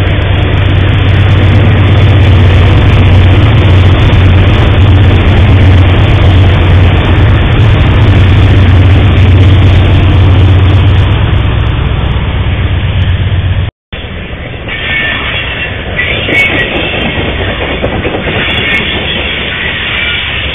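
A diesel locomotive passing close by, its engine running with a loud, steady low rumble. After a cut about two-thirds of the way through, freight cars roll past, with high wheel noise coming and going over the rolling sound.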